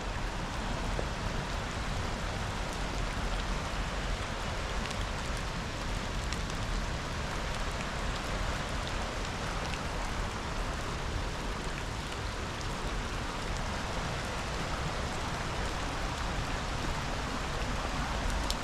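Steady, even rushing of a river waterfall mixed with rainfall, with faint scattered ticks of raindrops striking.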